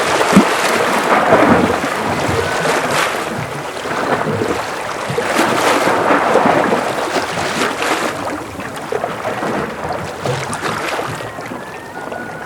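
Ocean waves washing against a breakwater. The wash swells and eases several times, loudest in the first few seconds.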